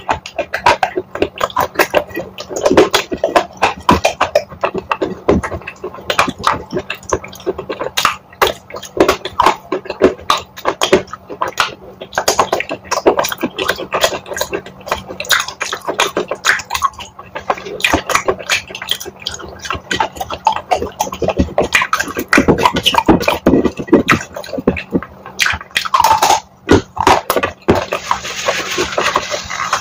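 Close-miked chewing of wet chalk coated in chalk paste: dense, irregular wet crunches, clicks and mouth smacks.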